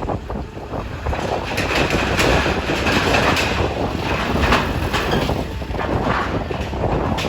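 Continuous rumbling, clattering noise with many irregular knocks, mixed with strong wind.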